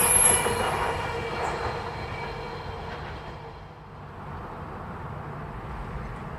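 A train passing and running away, its noise fading steadily; a high wheel squeal dies out in the first second.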